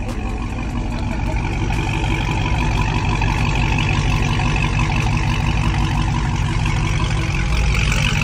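A car engine running steadily, growing a little louder over the first couple of seconds.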